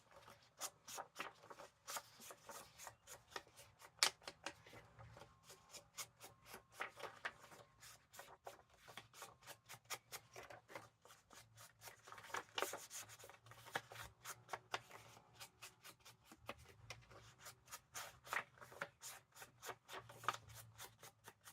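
Ink being dabbed and rubbed onto the edges of a paper tag with an ink blending tool: a steady run of quick, light taps, several a second.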